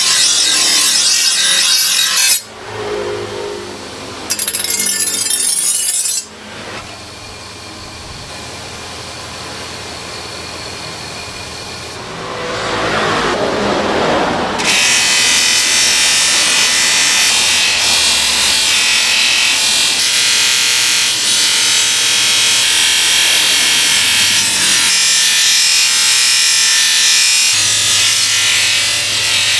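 Workshop power-tool noise in several cut-together passages: short loud hissing stretches, a quieter stretch that swells and fades near the middle, then a long steady loud run of tool noise.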